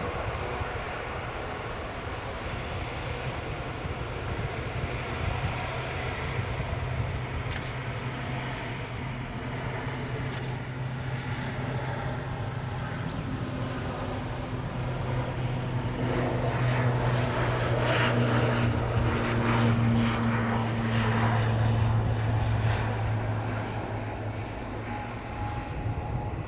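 ATR 72-600 turboprop airliner taking off, its twin six-blade propellers giving a steady low drone. The drone swells to its loudest a little over halfway through as the aircraft passes, then fades. A few short sharp clicks sound over it.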